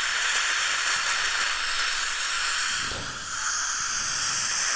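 Dental suction running with a steady hiss, dipping briefly about three seconds in.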